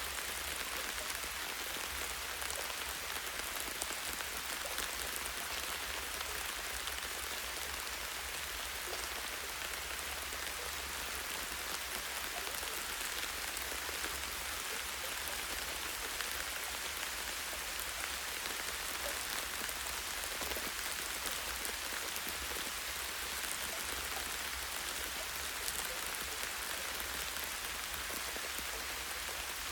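Light rain falling steadily on tree leaves and branches: an even, high hiss full of tiny drop ticks, with a low rumble underneath.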